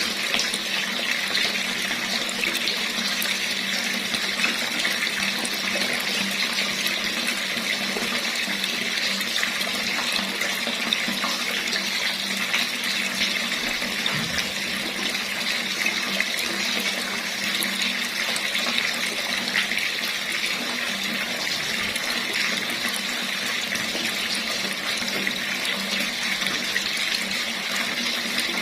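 Tap water running in a steady stream, splashing continuously.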